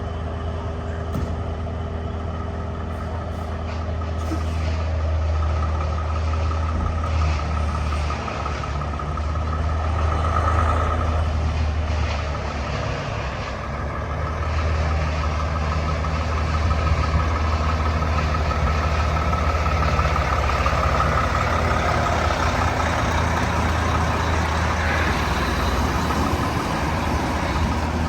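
Semi truck's diesel engine running with a steady low drone while it is backed into a dock, swelling and easing a little as it goes.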